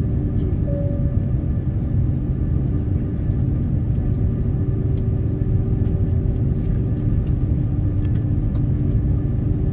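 Steady, loud engine rumble of an airliner taking off, heard inside the passenger cabin, with a low hum running through it.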